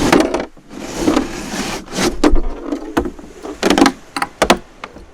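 Knocks and thumps of gear being handled in a beached dinghy: about half a dozen sharp knocks spread over the few seconds, with rustling and scraping in between.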